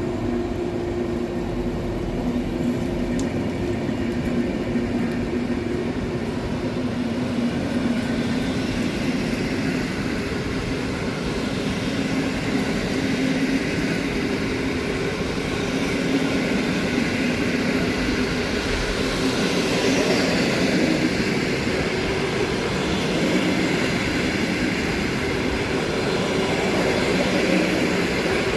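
A train running through the station: a steady rumble with a low hum, growing slightly louder toward the end.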